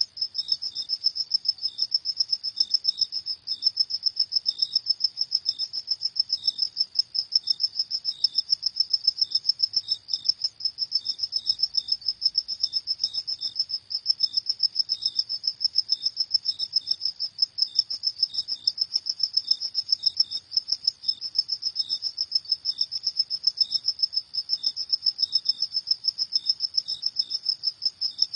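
Crickets chirping at night: one high, steady trill of rapid, even pulses, with fainter, lower chirps from another cricket scattered through it.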